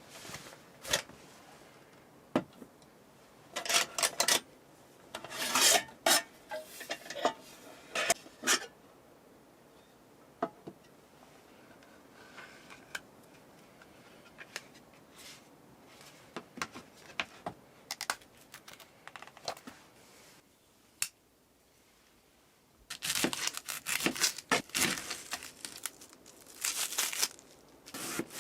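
Things being handled at close range: irregular bursts of rustling and crinkling with small sharp clicks and knocks, in two busy spells separated by a quieter stretch.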